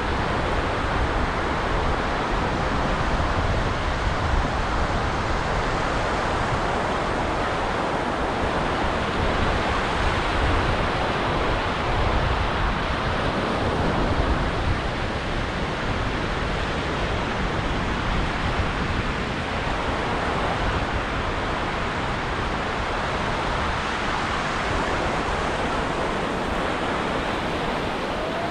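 Ocean surf washing steadily onto a beach, a continuous hiss of breaking waves that swells a little about halfway through.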